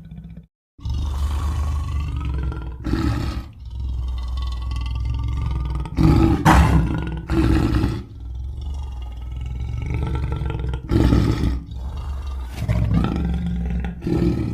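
Big-cat roars and growls, a string of long, deep calls one after another with brief breaks, the loudest about halfway through, used as creature sound effects.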